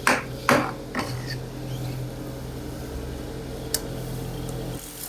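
Two or three sharp strikes in the first second, the tail of a steady hammering rhythm, then a steady low machine hum with a single sharp click near four seconds in.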